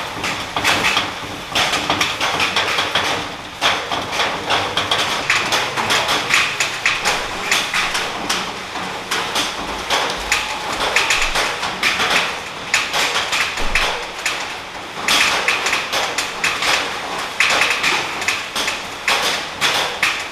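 A dense, continuous run of rapid, irregular tapping and knocking.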